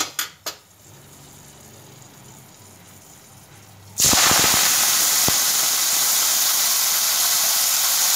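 Chopped fresh fenugreek (methi) leaves dropped into hot oil with whole dried red chillies, tempering them: a loud, steady sizzling hiss starts suddenly about halfway through, with a few knocks as the leaves go in. Before that, only a faint low hum.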